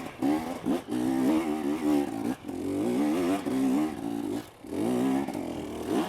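Two-stroke dirt bike engine revving in repeated bursts, its pitch rising and falling, with brief drops about a second in, around two and a half seconds and around four and a half seconds, as the rider tries to get up a steep climb.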